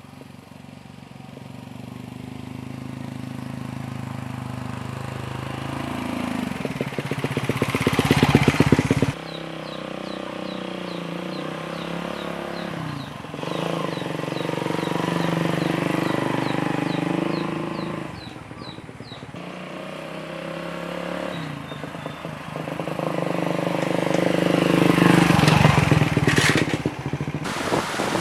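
Motor vehicle engine running on the move, its revs and loudness rising and falling, with sudden breaks a few times.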